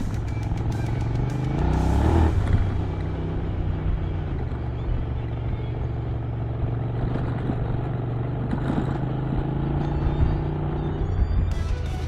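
Honda Africa Twin motorcycle engine running under way, rising in pitch as it accelerates about two seconds in, then holding steady.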